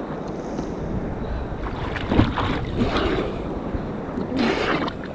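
Rough sea water splashing and washing, with wind buffeting the microphone; louder splashes about two seconds in and again near the end.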